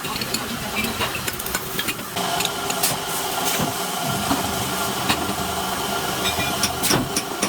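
Factory machinery running: a steady hiss with scattered sharp metallic clicks and knocks, and a steady mid-pitched hum that comes in about two seconds in.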